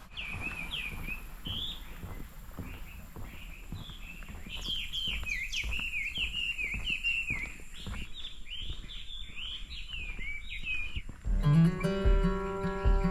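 Small birds chirping in quick, overlapping calls, busiest in the middle stretch. About eleven seconds in, acoustic guitar music starts.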